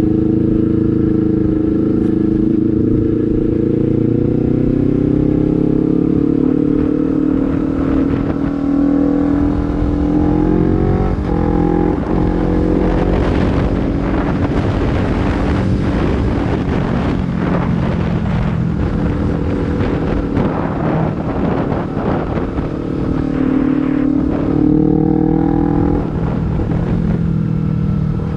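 Honda CBR250RR with a Proliner slip-on exhaust running while being ridden, its exhaust note rising slowly through the first ten seconds or so. A rougher, wind-buffeted stretch follows in the middle, and the engine note holds steady near the end.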